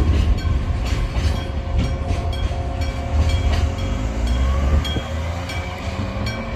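Freight train rumbling over a level crossing, its wheels clacking over the rail joints, fading slowly as it passes. The crossing's electric bell rings in repeated strokes, about two a second.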